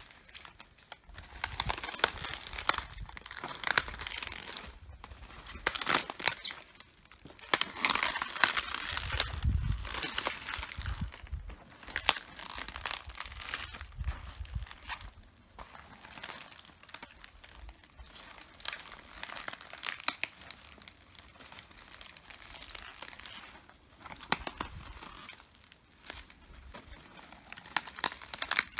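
Red cabbage leaves crunching, crackling and tearing underfoot as someone walks on them, in irregular bursts of brittle crackles. A few low thuds from the footfalls come about nine and fourteen seconds in.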